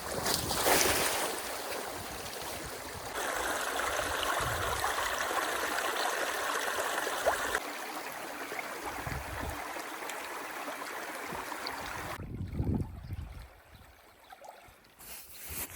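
Water running through a drainage canal, released through a breach in a beaver dam. It is a steady rush that gets louder about three seconds in and falls away to a much quieter trickle near the end.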